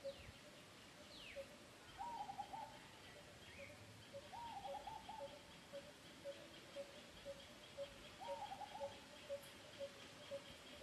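Faint background birdsong: one short note repeated about twice a second throughout, three brief warbling phrases, and two quick falling whistles near the start.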